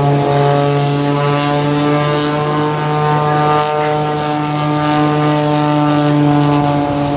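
Aerobatic propeller plane's piston engine and propeller at high power during a loop, a steady drone that holds one pitch throughout.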